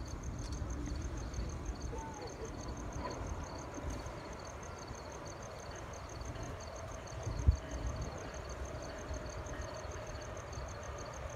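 Crickets chirping in a steady, evenly pulsing high trill over a low background rumble, with a single sharp knock about seven and a half seconds in.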